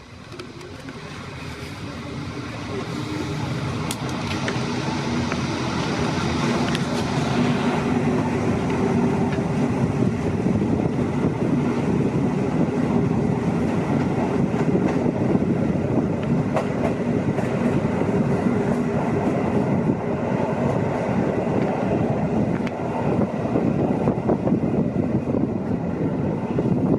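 Train running on the rails, a steady rumble that grows louder over the first several seconds and then holds.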